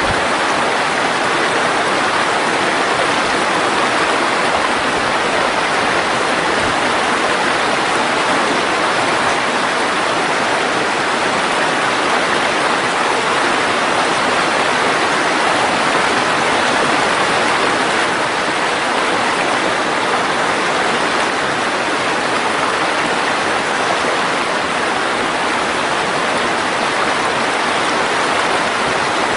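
Mountain stream rushing steadily over rocks, a continuous even roar of flowing water.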